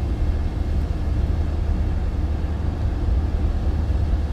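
Car driving along, heard from inside the cabin: a steady low road rumble with a faint haze of tyre noise.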